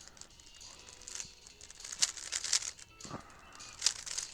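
3x3 speedcube being turned by hand: quick runs of plastic clicking and rattling as the layers are spun, heaviest about two seconds in and again near the end.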